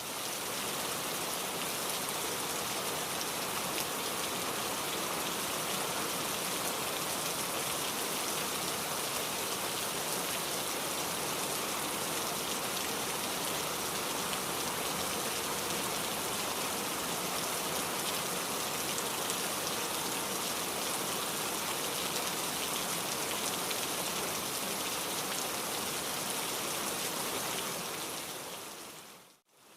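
Steady rain, an even hiss of drops falling on a surface, fading in at the start and fading out near the end.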